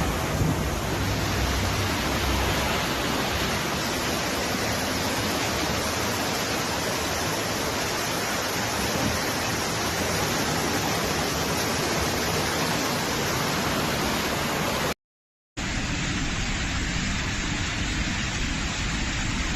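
Rushing floodwater: a steady, dense rush of fast-flowing water, which cuts out for half a second near the end and comes back slightly duller.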